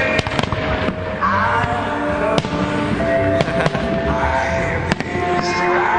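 Music playing throughout, with several sharp firework bangs over it. The strongest bangs come about two and a half seconds in and near the end.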